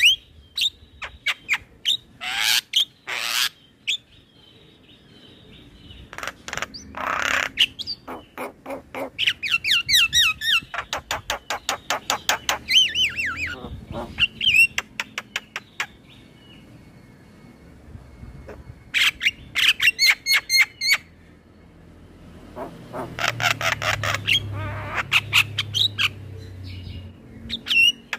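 Male Javan myna singing in full voice: harsh squawks and whistles mixed with rapid runs of short, clicking repeated notes, in bursts separated by brief pauses.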